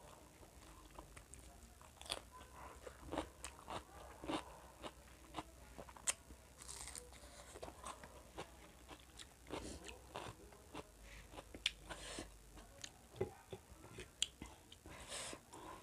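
Close-miked eating sounds of a person chewing food taken by hand: faint, irregular wet clicks and lip smacks, with a few louder smacking bursts.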